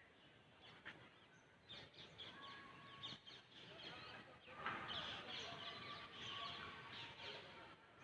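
Birds chirping, many short overlapping calls, faint at first and growing busier and louder about halfway through.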